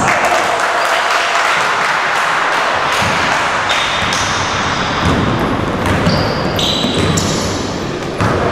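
Basketball game in an echoing gym: the ball bouncing on the court amid steady noise from players and onlookers, with a few short high squeaks.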